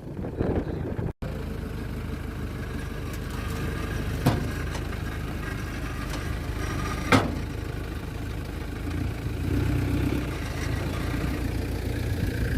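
Car engine idling steadily, with two sharp knocks in the middle and a slight rise in the engine note about ten seconds in.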